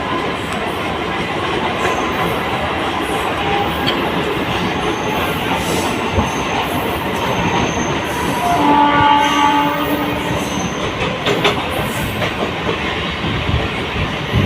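Mumbai suburban trains running past on the rails, a steady wheel-and-rail din with some clattering. About eight and a half seconds in, a train horn sounds for about a second and a half.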